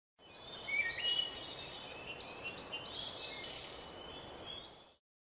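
Several songbirds singing and chirping, short whistled phrases and trills one after another over a steady hiss of outdoor background noise. The sound fades in at the start and dies away about five seconds in.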